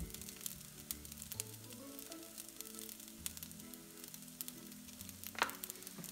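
Food frying in oil in a pan: a steady sizzle with scattered pops and crackles, under background music with held low notes. One sharper, louder snap comes about five and a half seconds in.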